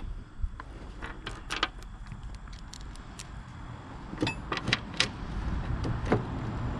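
Sharp metallic clinks and taps of hand tools and steel mower parts being handled, about seven scattered strikes, one near the middle with a brief ring, over a low steady rumble.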